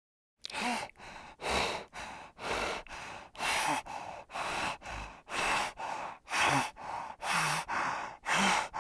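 An animal breathing heavily and rhythmically, about one breath a second, louder breaths alternating with softer ones, a few with a faint low grunt in them.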